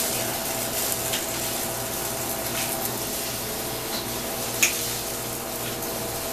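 Steady hiss and hum of a commercial kitchen: tofu and rice frying in a wok on a gas range under a running exhaust hood fan. A short sharp click stands out about four and a half seconds in.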